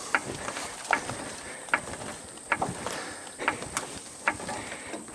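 Vehicle jack being worked by hand under a van, with a sharp click about every 0.8 seconds as it is pumped.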